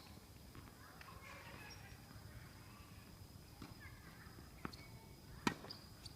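Mostly quiet court ambience with faint distant voices, then one sharp knock of a tennis ball about five and a half seconds in, with a couple of fainter knocks before it.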